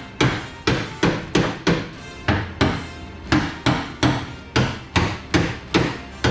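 A hammer striking repeatedly in a steady rhythm, about three sharp blows a second, each with a short ring.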